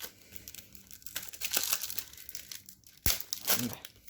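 Trading-card packet wrapper crinkling and tearing as it is pulled open by hand, with one sharp tap about three seconds in.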